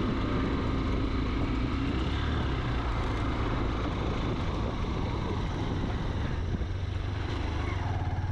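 Honda Hornet motorcycle running steadily while riding, a low rumble under an even noisy hiss.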